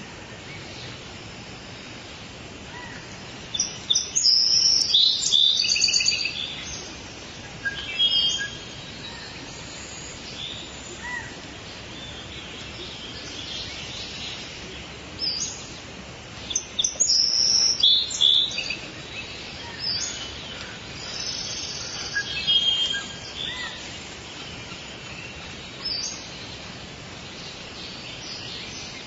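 Birds singing and chirping over a steady background hiss of forest ambience, with the busiest bursts of song a few seconds in and again past the middle.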